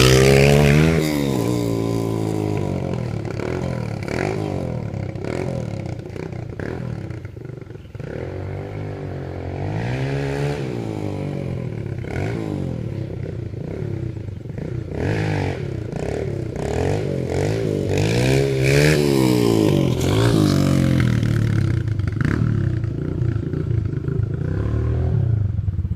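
Dirt bike engine being ridden hard, revving up and easing off over and over, its pitch rising and falling every few seconds as it goes around the track and over the ramp.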